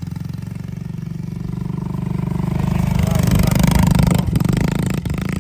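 Small dirt bike engine running, getting louder from about two seconds in as it is given throttle, loudest around four seconds, then backing off near the end.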